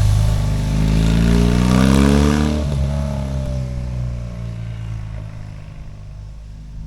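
BMW R18's 1802 cc boxer twin through modified louder fishtail pipes, accelerating hard with the pitch climbing. About two and a half seconds in the note drops abruptly and the sound fades away as the bike draws off or coasts.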